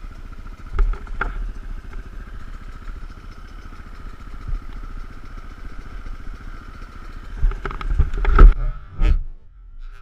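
Off-road dirt bike or quad engine running steadily, with a few loud knocks about a second in and again near the end.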